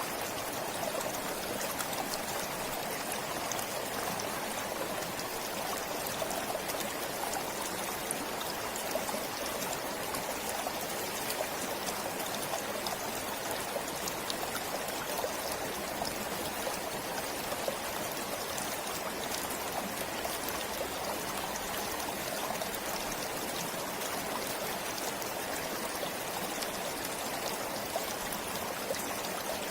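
A forest stream flowing steadily, an even rush of water with small splashes and trickles through it.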